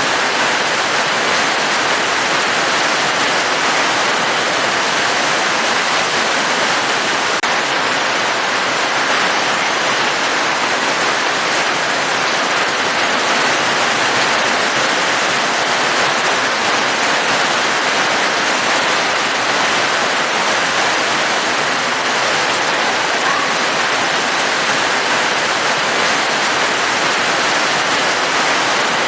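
Steady rain falling, an even, unbroken hiss with no changes.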